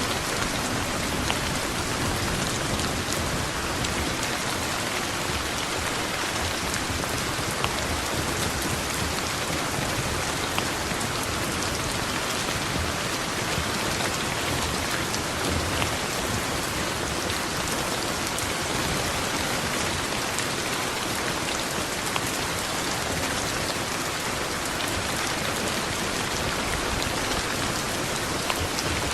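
Steady heavy rain falling and pattering on surfaces, with scattered sharper drop ticks.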